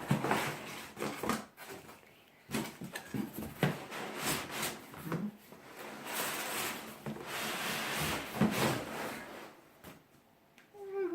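Rustling and rubbing with irregular light knocks, as of packaging and parts being handled. A short voice sound comes in right at the end.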